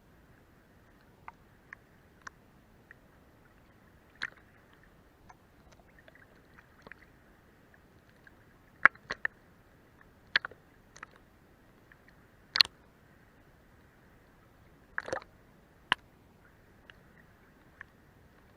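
Seawater lapping against a boat's hull from beneath: irregular small wet slaps and splashes over a faint hiss, a handful of them much louder than the rest.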